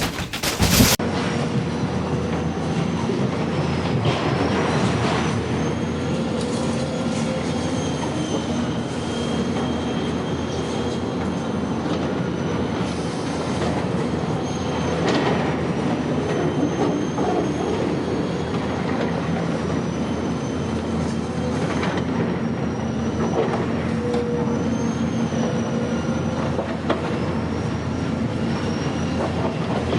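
Steady rolling, rattling mechanical noise with a thin, wavering high-pitched squeal above it.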